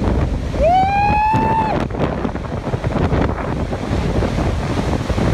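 Strong storm wind buffeting the microphone in a steady rumble. About half a second in, a person lets out a drawn-out shout that rises and then holds for about a second.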